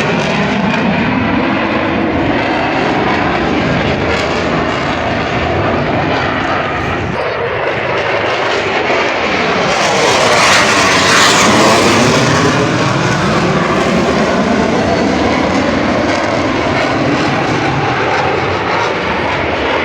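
Military aircraft flying low overhead. Its engine noise swells to its loudest a little past the middle and then eases off, with a sweeping, phasing change in tone as it passes over.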